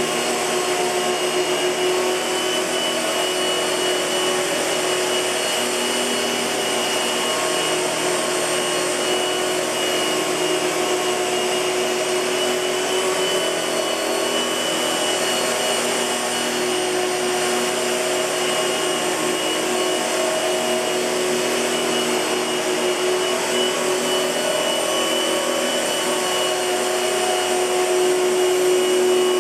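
1998 Hoover Futura S3561 canister vacuum cleaner running steadily, a constant motor whine with a steady pitch, getting slightly louder near the end.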